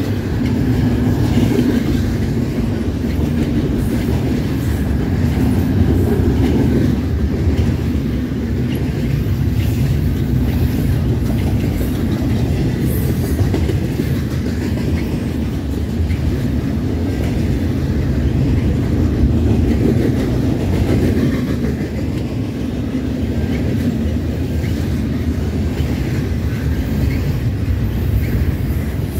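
Double-stack intermodal container well cars rolling past at close range, their steel wheels making a steady, loud rumble on the rails.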